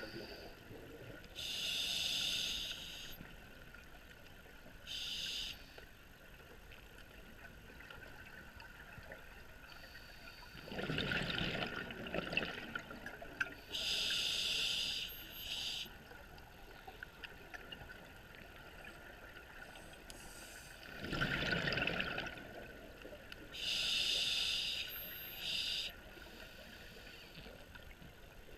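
A scuba diver breathing through an open-circuit regulator underwater, slowly, about once every ten seconds. Each breath is a rushing inhale through the regulator followed a couple of seconds later by a louder burst of exhaled bubbles.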